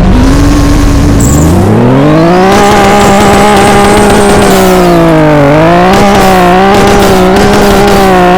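Car engine revving up and held at steady raised revs, dipping briefly about five and a half seconds in, with short pops scattered through the run.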